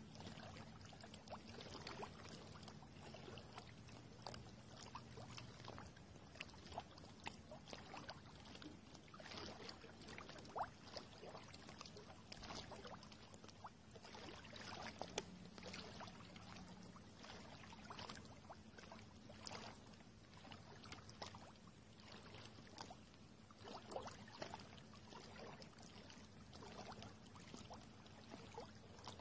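River water trickling and lapping quietly, with many small scattered clicks and splashes.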